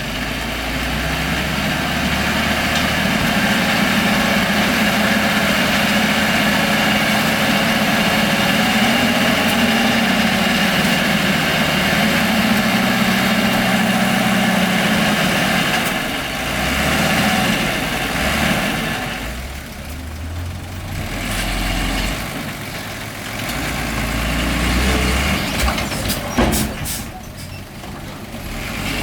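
Heavy diesel engine of earth-moving machinery running steadily, its note easing and shifting several times in the second half, with a few sharp knocks near the end.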